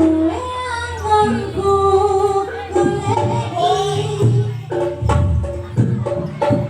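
Live Javanese jaranan accompaniment music: a singer's held, wavering melody over a steady low drone and struck percussion. The percussion strokes come thicker near the end.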